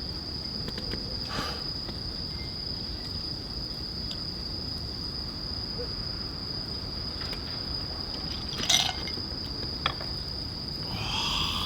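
Insects chirring: one steady high-pitched trill that holds unbroken, with a few short clicks over it, the loudest about three-quarters of the way through.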